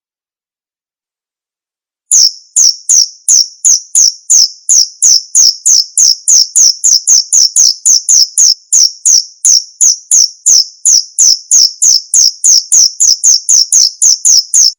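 Male cricket chirping loudly in a steady, even rhythm of about three short chirps a second, starting about two seconds in and cutting off suddenly at the end.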